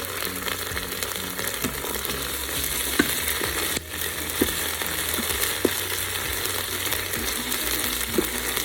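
Onions and ginger garlic paste sizzling steadily in hot oil in a Ninja Foodi pot on high sauté, with a few light knocks from stirring.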